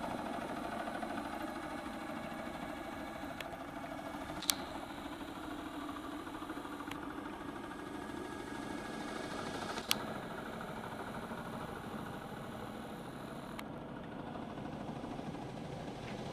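Cordless drill used as a boat motor, running with a steady hum. Two sharp clicks, about four and a half seconds and ten seconds in.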